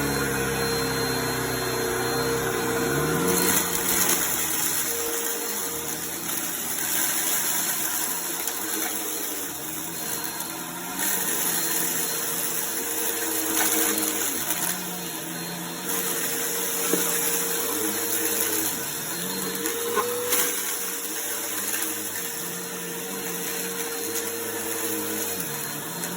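Vacuum cleaner running over a rug and sucking up confetti, its motor tone shifting up and down as the nozzle is pushed and pulled, with a few sharp clicks of pieces rattling up the hose.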